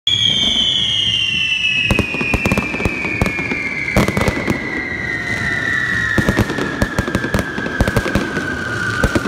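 Fireworks display: a rapid, irregular run of bangs and crackles, with the heaviest bangs about two and four seconds in. Under it runs a continuous whistle that falls slowly in pitch.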